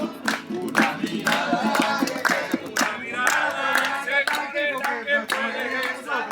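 A group of people singing a praise song together, clapping their hands along about twice a second.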